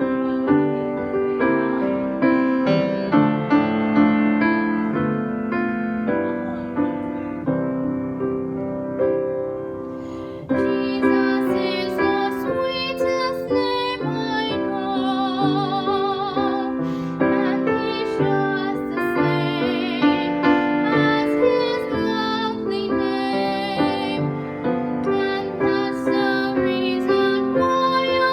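Piano accompaniment with a young woman singing a slow solo hymn. Her voice carries a wide vibrato and grows louder from about ten seconds in.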